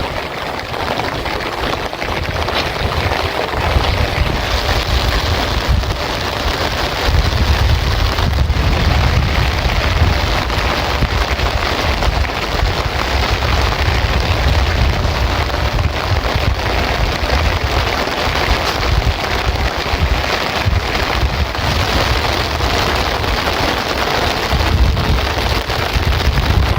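Heavy rain falling steadily, a dense hiss of drops throughout, with a low rumble underneath that rises and falls.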